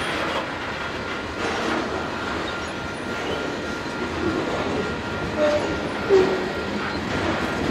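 Covered hopper cars of a long Canadian Pacific grain train rolling past at a grade crossing: a steady rumble of steel wheels with a clack about every second and a half as each set of trucks passes. Two short squeals come a little past the middle, the second the loudest sound.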